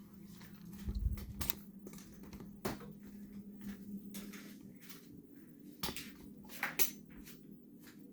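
Scattered knocks and clicks of objects being handled and moved, with a heavier thump about a second in, over a steady low hum.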